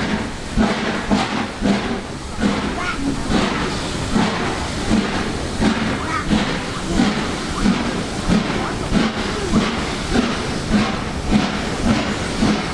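LMS Black Five two-cylinder 4-6-0 steam locomotive under way, its exhaust chuffing in an even beat of about two a second over a steady hiss of steam.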